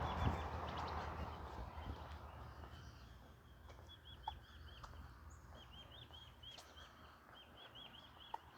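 Small birds singing in rapid series of short, repeated chirps, over a faint rushing noise that fades over the first couple of seconds.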